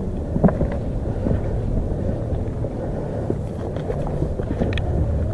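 Wind buffeting the camera microphone as a steady low rumble, with a few faint clicks and knocks scattered through it.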